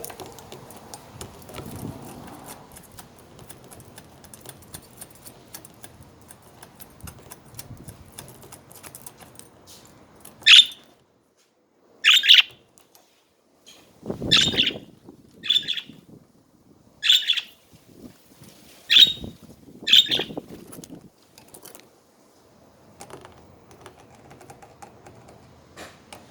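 Pet budgerigars chattering softly with small clicks and ticks, broken about ten seconds in by a run of about eight loud, sharp calls, one every second or so, before the soft chatter returns.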